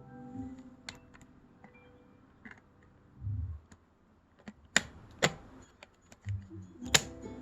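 Sharp plastic clicks and a dull thump as the parts of a Samsung Jet cordless stick vacuum are handled. The loudest are two clicks about half a second apart, near the middle, and another near the end.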